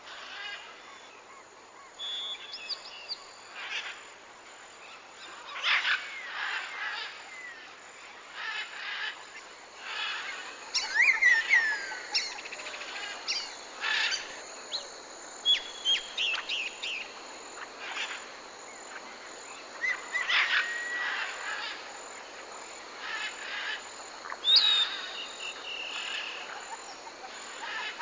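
Forest birds calling over a faint, steady, high insect hum: short repeated notes and falling whistles every second or two, with the loudest calls about 11, 20 and 24 seconds in.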